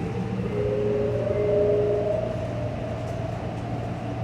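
Electric traction drive whine of a 2018 New Flyer Xcelsior XT40 trolleybus with Vossloh Kiepe motors, rising in pitch as the bus pulls away and levelling off about two seconds in, over a steady low hum. This unit is known for its weird-sounding drive.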